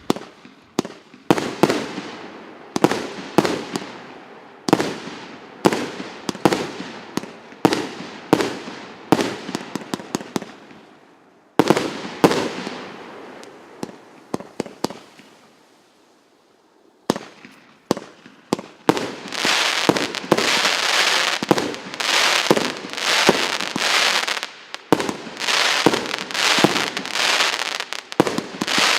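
A 50-shot, 1.25-inch firework cake firing shot after shot: a series of sharp bangs, each dying away, about one or two a second. After a lull near the middle, a denser, almost continuous run of bangs follows.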